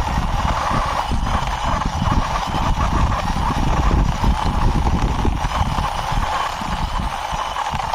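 Toy sport motorbike pushed by hand along a boundary wall, its small wheels rolling and scraping on the wall surface in a continuous, uneven rumble.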